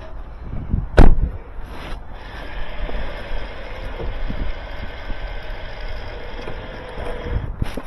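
A single loud bang about a second in, then a car running steadily with a low hum.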